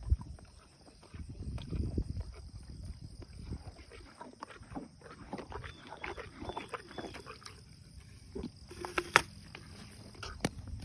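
Donkey chewing a snack close by: a run of crisp crunches and clicks, with a few louder ones and a low rumble of breath early on.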